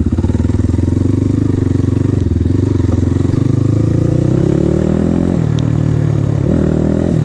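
Off-road motorcycle engine pulling at low revs, then revving up with a rising pitch about four seconds in, dropping back, and revving briefly again near the end as the bike rides off.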